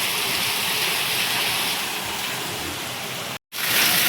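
Heavy rain pouring down, a dense steady hiss. Near the end it cuts out for an instant and comes back louder.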